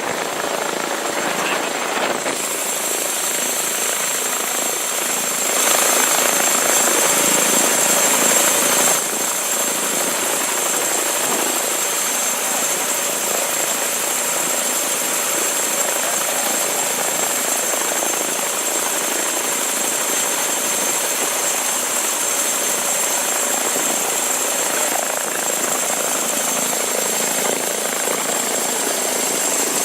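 Helicopter running: steady engine and rotor noise with a thin, high turbine whine, swelling louder for a few seconds about six seconds in.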